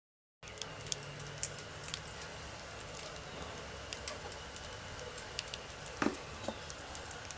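Small white rodents scurrying in a cardboard box lined with a towel: a steady low rustle with many small scratchy clicks from claws and feet, and one louder knock about six seconds in.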